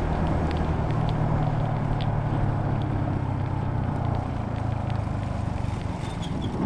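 Yamaha Sniper 150 motorcycle running at a steady cruising speed, its 150 cc single-cylinder four-stroke engine humming under a haze of wind and road noise.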